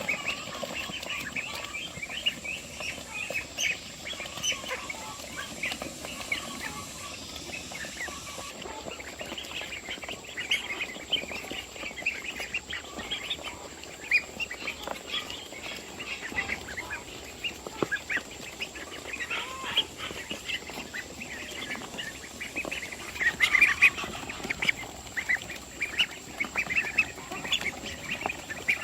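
A flock of poultry calling: many short overlapping calls and squawks that never stop, busiest about five seconds from the end.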